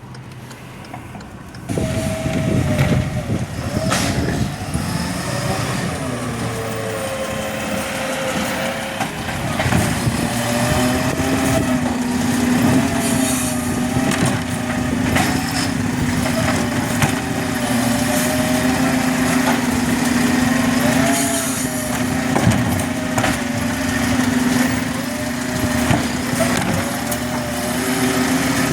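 Garbage truck running, with a steady whine that sets in about ten seconds in over wavering higher tones, and scattered knocks and clatters.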